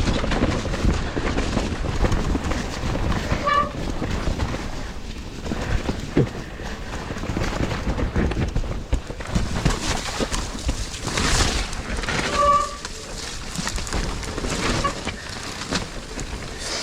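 Mountain bike riding down a muddy trail: the continuous rumble and rattle of the bike and its tyres over rough, wet ground, with a couple of brief squeaks.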